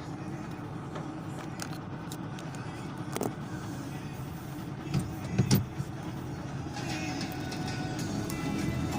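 Car driving along a road: a steady low rumble of tyres and engine, with a few louder thumps about five seconds in.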